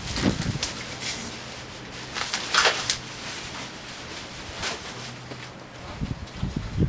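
Scattered rustling and light knocks of things being handled, with a louder scraping rustle about two and a half seconds in.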